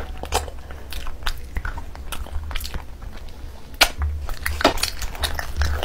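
Close-miked eating: wet chewing and mouth smacks as curried meat is bitten off the bone by hand, in irregular sharp clicks, the loudest about four seconds in, over a steady low hum.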